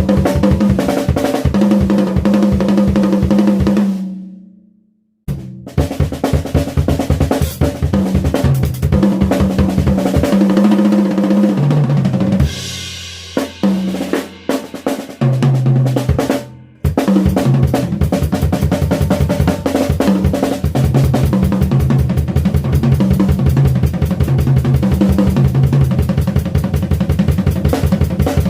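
Drum kit played in fast, busy patterns of rolls and fills across snare, bass drum and toms, with cymbals; the playing stops about four seconds in, the drums ring out to silence, then it resumes and runs on with a short break near the middle.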